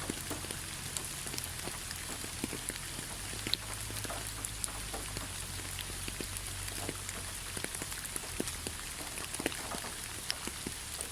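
Steady rain falling in a forest, with many separate drops ticking on surfaces against a constant hiss.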